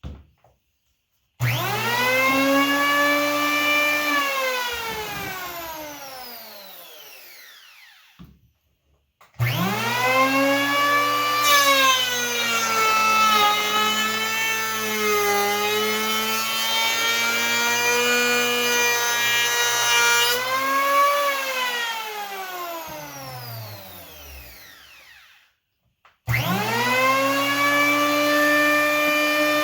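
WEN 3-1/4-inch electric hand planer run in three bursts, its motor whining up to speed each time it is switched on and winding down when released. In the long middle run the pitch sags and a rough cutting noise rises as the blades shave the wood surface, then it spins down; near the end it is started again.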